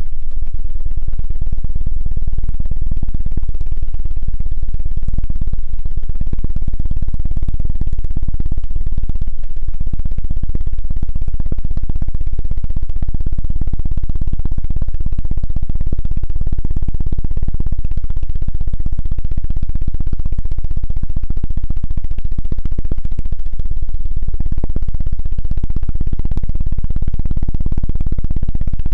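Rapid, continuous low thumping directly on an ASMR ear microphone, the fast 'helicopter' ear-cleaning trigger, loud and close with pulses too quick to count.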